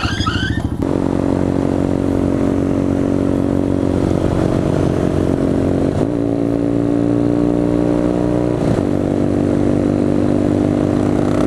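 Motorcycle engine running at a steady speed while riding, its pitch stepping up about six seconds in and dropping back near nine seconds.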